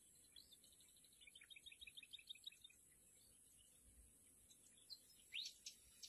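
Faint bird chirps: a quick run of short high notes in the first half, then a single rising note near the end, over a steady high hiss.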